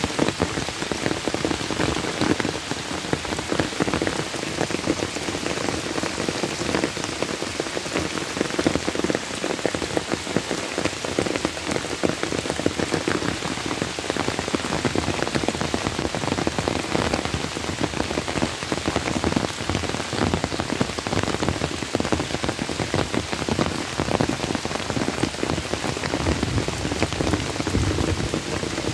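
Summer rain pouring steadily onto pond water and the surrounding trees and grass, a dense, even patter of drops with no letting up.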